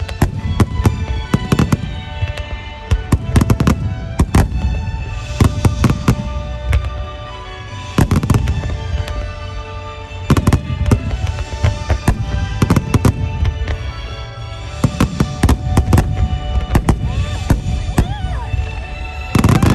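Fireworks bursting in quick clusters of sharp cracks and booms, with music playing underneath.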